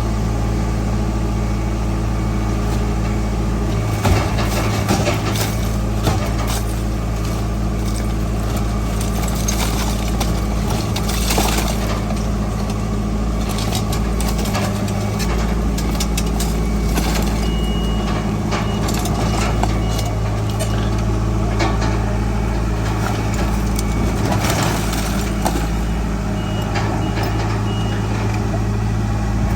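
Heavy diesel earthmoving machinery running steadily under load, with scattered metallic clanks and knocks. A high, intermittent beeping like a reversing alarm sounds in the second half.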